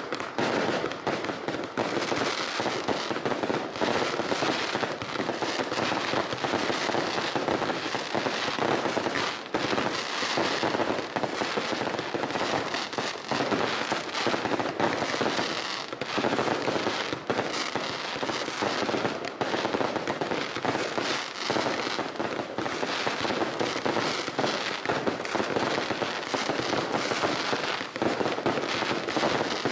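Professional fireworks display: a dense, continuous barrage of bangs and crackling with no let-up.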